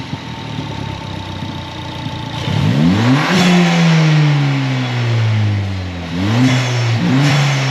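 Ford Fiesta Mk7 ST's turbocharged 1.6-litre EcoBoost four-cylinder, breathing through an ITG induction kit into a 3-inch exhaust, running at idle and then revved. One rev about three seconds in falls away slowly, and two shorter blips come near the end, each with a rush of intake noise as it peaks.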